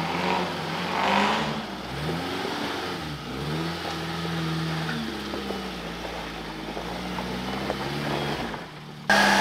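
Suzuki Samurai's engine revving up and down as it crawls up a rocky track, its pitch rising and falling with the throttle. Shortly before the end it cuts suddenly to a louder engine sound.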